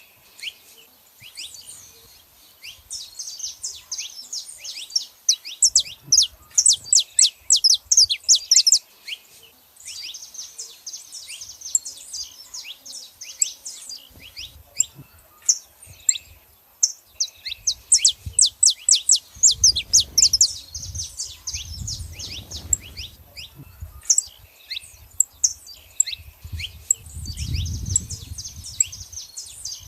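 Saffron finches, a female and a male, chirping in quick runs of sharp, high downward-sweeping notes, in bursts of a few seconds with short pauses between.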